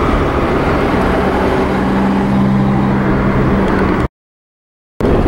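Steady engine and tyre noise of a car driving along a road, heard from inside the car, with a low steady hum in the middle. The sound cuts out completely for about a second near the end.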